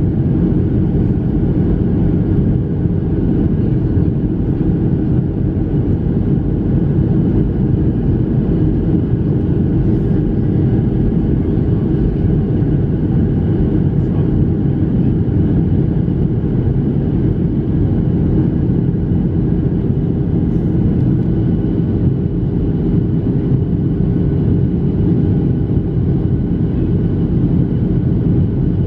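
Steady cabin noise inside a Boeing 737-700 on approach: the CFM56-7B engines humming under the rush of airflow, with a few faint steady tones above it.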